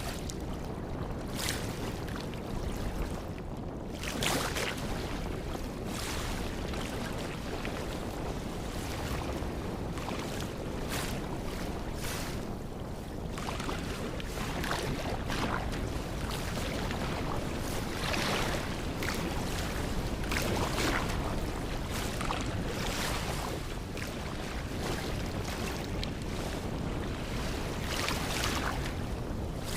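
Ocean surf washing on a beach, with wind rushing over the microphone in repeated gusts.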